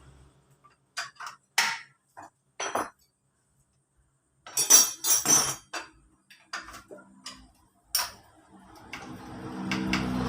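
Metal tools and engine parts clinking and knocking as they are handled and set down during an engine teardown: a few separate sharp clinks, then a quick cluster about halfway through, then scattered lighter ticks.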